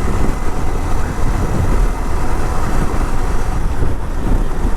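Wind buffeting the microphone on a moving motorcycle, a loud, unsteady rushing with road and engine noise beneath it.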